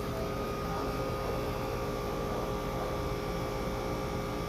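Steady mechanical hum and hiss, with a few unchanging tones in it.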